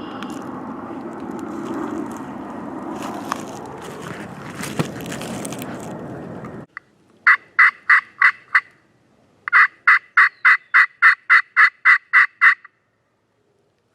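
A steady rushing noise cuts off suddenly about six and a half seconds in. Then comes a series of turkey yelps: about seven evenly spaced notes, a short pause, and a run of about a dozen more at roughly four a second.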